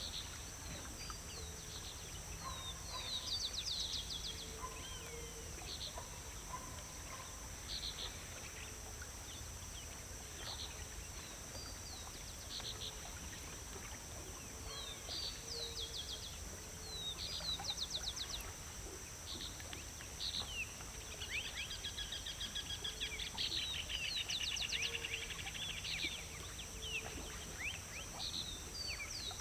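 Several small birds chirping and calling in short, scattered notes, with a rapid trill about two-thirds of the way through, over a steady high-pitched hiss and a low rumble.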